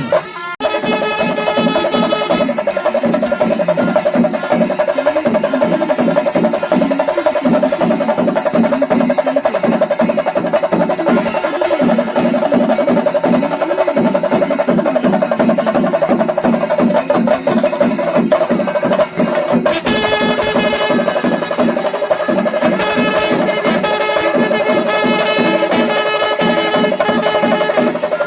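Kerala temple festival melam: an ensemble of drums played in fast, dense strokes under a steady held note from a wind instrument, continuous throughout.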